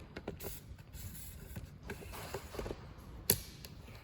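Handling noises: scattered small clicks and rustles, with one sharp knock a little over three seconds in. No chainsaw engine is running.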